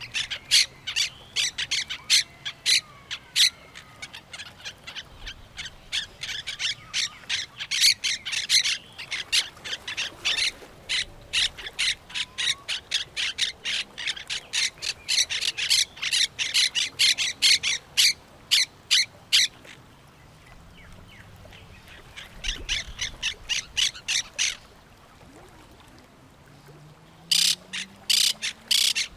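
Parrots and other birds calling in quick runs of short, sharp calls, several a second. The calls briefly let up about two-thirds of the way through and again shortly before the end.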